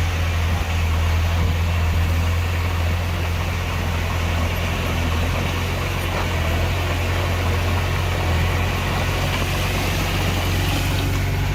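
Heavy diesel engine of earthmoving machinery running steadily, a low hum with no change in speed.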